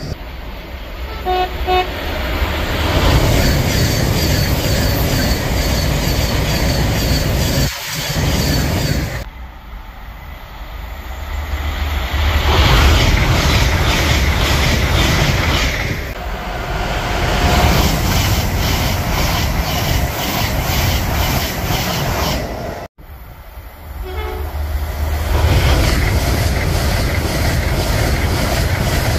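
A series of fast trains, among them an LNER Azuma, running through a station at speed. Each pass is a loud rush of wheels and air that swells and fades. A short two-note horn toot sounds about a second in, and another brief horn follows about two-thirds of the way through.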